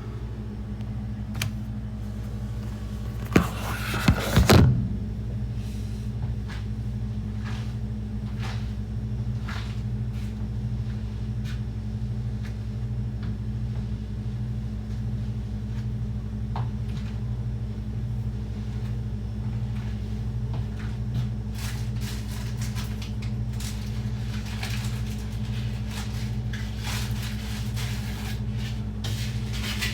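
Steady low electrical hum of a running kitchen appliance, with occasional clinks and knocks of kitchenware. There is a cluster of louder knocks about four seconds in, and more frequent clatter in the last third.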